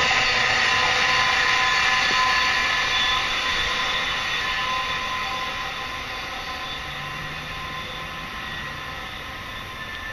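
Electric passenger train going away after rushing past at speed, its wheel and rail noise and a few steady high whining tones fading over several seconds.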